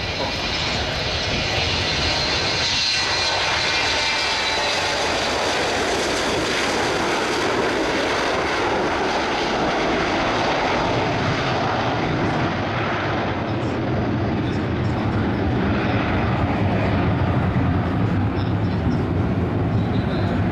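Boeing 727's three Pratt & Whitney JT8D jet engines, loud and continuous as the airliner flies past. A high whine with thin tones dominates the first half, then the treble fades and a deep rumble takes over.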